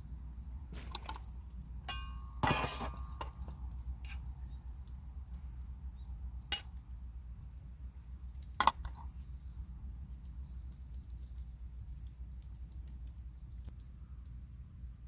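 A few sharp clinks of tableware or cookware, about five in the first nine seconds. The loudest, about two and a half seconds in, rings briefly.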